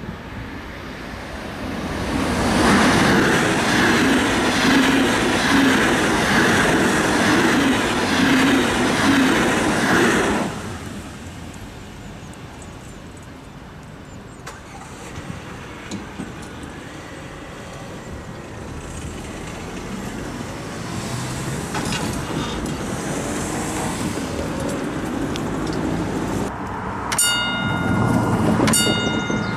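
A Regional-Express train (RE 8) passing on electrified double track, loud for about eight seconds and then fading away. Near the end come two short ringing tones about a second and a half apart.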